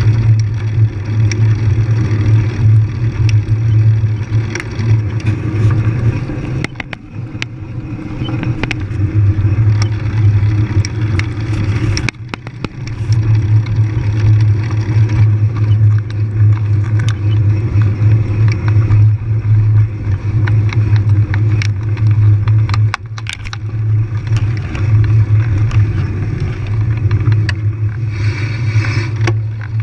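Riding noise from a bike moving along a trail: a steady low rumble with a haze of noise over it, broken by frequent short rattles and knocks from the rough ground. The rumble drops away briefly a few times.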